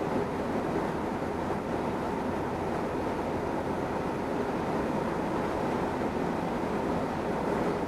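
Cessna 172N's four-cylinder Lycoming engine and propeller droning steadily in flight, an even rushing hum with no change in power.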